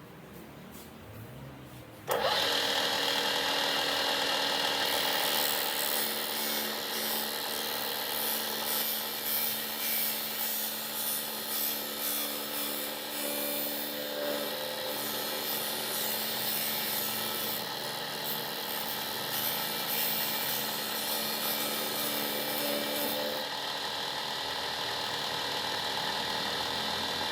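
An electric blade-sharpening grinder switches on about two seconds in and runs steadily with a hum and a whine. A rougher high hiss rides over it from about five seconds in until near the end.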